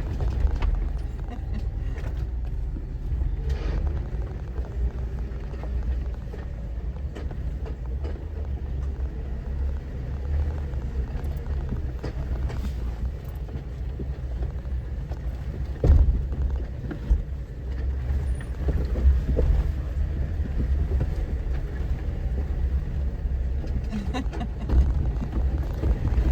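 Off-road vehicle engine running at low revs with a steady low rumble as it crawls over a slick obstacle, with a few sharp knocks, the loudest about 16 seconds in.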